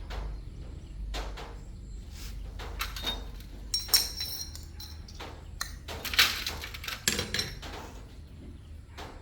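Metal parts and hand tools clinking and knocking in irregular strokes, with a ringing clink about four seconds in and a louder scraping rattle around six to seven seconds, over a low steady hum.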